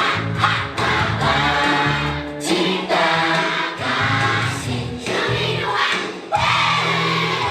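Upbeat song with a group of voices singing together in unison over backing music; the music dips briefly about six seconds in and comes back.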